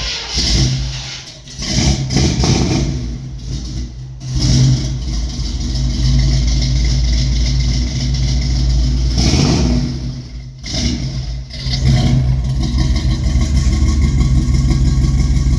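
1971 Chevy C10 pickup's engine on a cold start, heard through Thrush mufflers: it runs unevenly for the first few seconds, then settles into a steady run. It drops away sharply just past ten seconds, then picks up again with a rev about a second later.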